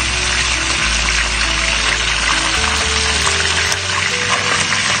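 A whole chicken deep-frying in a pot of oil, the oil sizzling steadily, with background music of held bass notes.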